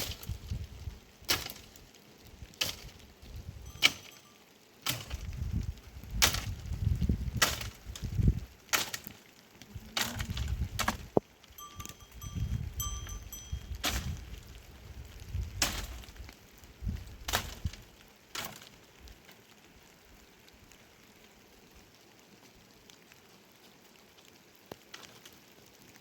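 A series of sharp knocks, roughly one a second, with low rumbling between them. They stop after about eighteen seconds, leaving a low steady background.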